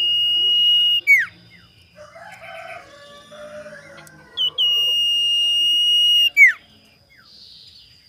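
Common iora whistling: a long, level, high whistle that ends in a quick downward slur about a second in, then the same whistle again from about the middle, held for about two seconds before it slurs down. Fainter, lower calls come in between.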